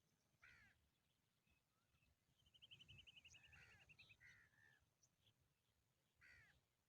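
Faint bird calls: a short harsh call about half a second in and again near the end, with a fast trill of quick repeated notes and a few chirps in the middle.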